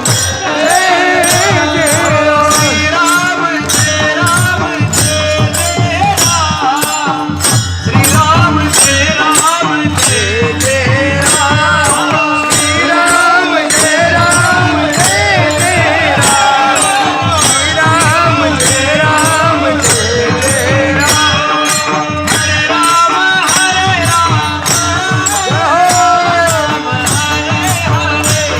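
Marathi devotional kirtan singing: a solo voice sings a wavering, ornamented melody over a held drone and a steady percussion beat.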